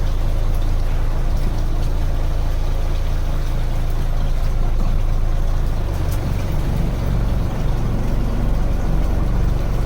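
Wooden fishing boat's engine running steadily, a constant deep rumble with an even hiss over it.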